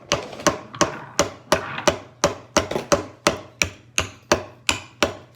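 A small hammer tapping a nail into wood in a steady run of about fifteen light blows, roughly three a second. The nail is being driven to fix a wheel onto its wooden axle.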